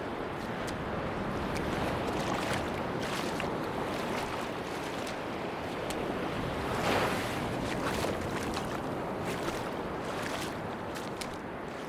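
Sea waves washing onto a beach, the wash swelling and easing, with a bigger wave about seven seconds in. Scattered small clicks sound through it.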